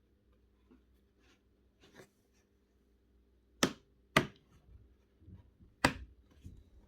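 Three sharp knocks, the first two about half a second apart and the third about a second and a half later, among faint clicks and taps of parts and tools being handled, over a faint steady hum.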